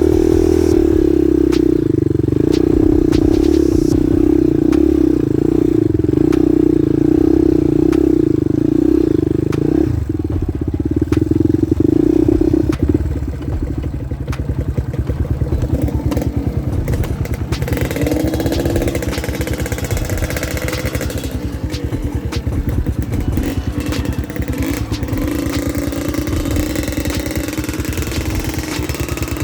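Trail motorcycle engine running under load: steady and loud for the first dozen seconds or so, then quieter with revs rising and falling, with frequent small knocks and clatter from the bike over the rough trail.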